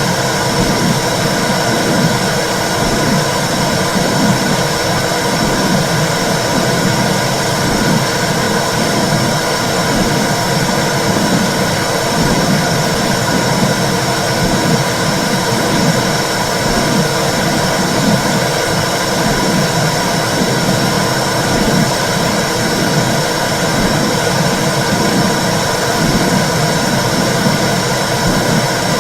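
Womb sound for soothing babies: a loud, steady whooshing rush with a low, rhythmic pulse, like blood flow and heartbeat heard from inside the uterus.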